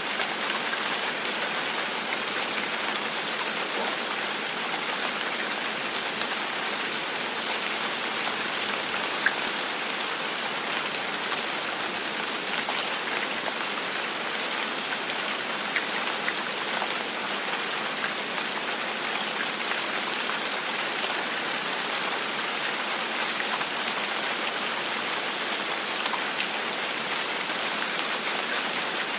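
Steady gentle rain falling on a surface, an even hiss with scattered individual drops ticking.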